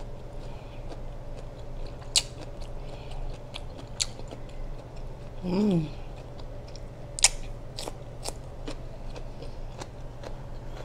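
Close-up mouth sounds of a person chewing food with the mouth closed, with wet smacks and a few sharp clicks. About halfway through comes a short hummed 'mm' that rises and falls in pitch, over a steady low hum.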